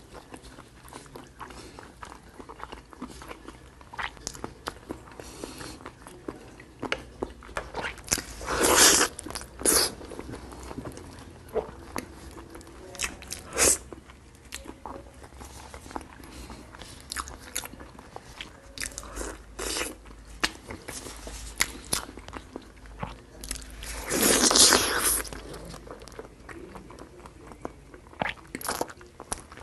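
Close-miked eating sounds: biting and chewing sticky braised pork trotters, with many short wet clicks and smacks. Two longer, louder stretches of mouth noise come about 9 and 24 seconds in.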